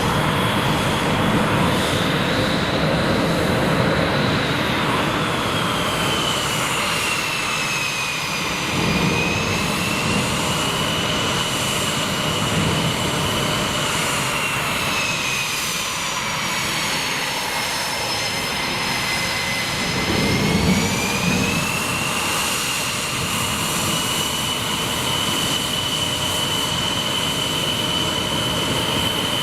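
Jet aircraft engine running steadily, a roar with a high turbine whine that slowly falls and rises in pitch several times.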